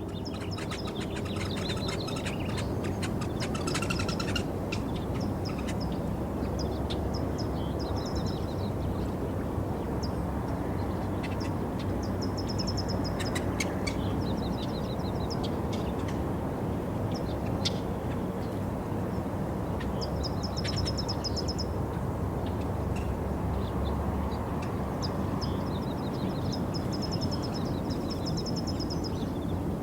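Small birds chirping in short rapid trills, repeated every few seconds, over a steady low background rumble.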